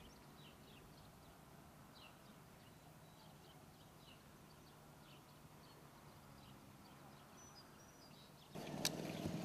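Faint outdoor ambience: small birds chirping over a low steady hum. Near the end a sharp click comes, and the background turns louder, with a stronger low hum.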